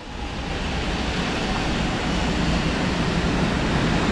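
500 series Shinkansen bullet train running along the platform track: a steady rushing noise that grows slightly louder.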